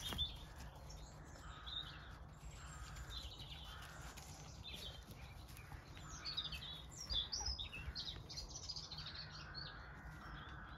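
Wild birds chirping and singing faintly in the background, short calls scattered throughout, over a low steady outdoor hum.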